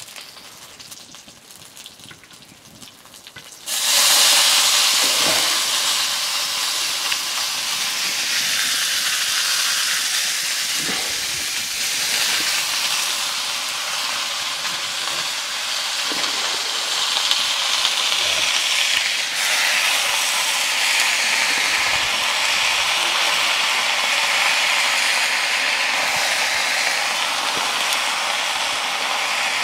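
Mustard greens sizzling in hot oil in a wok: a loud, steady hiss that starts suddenly about four seconds in as the leaves go into the pan.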